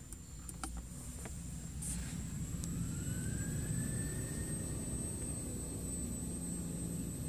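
A few light clicks, then a Ford car's idling engine picks up speed with no foot on the pedal, driven by throttle commands injected over the CAN bus through the OBD-II port. From about two seconds in, the engine grows louder and a whine rises in pitch for a few seconds, then levels off.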